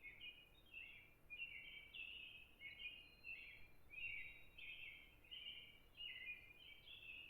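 Small birds chirping continuously, short high-pitched notes overlapping one another, faint.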